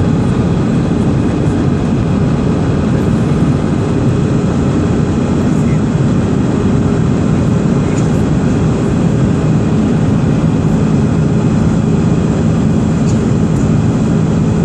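Steady, loud cabin noise inside a jet airliner: engine drone and rushing airflow, with a low hum that holds one pitch throughout.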